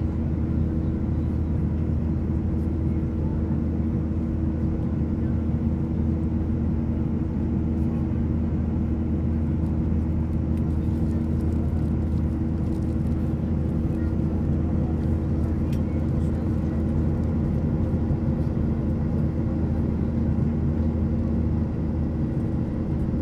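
Steady cabin drone of a Boeing 737-800 airliner in flight: CFM56 engine hum and airflow noise at a constant level, with a low steady hum underneath.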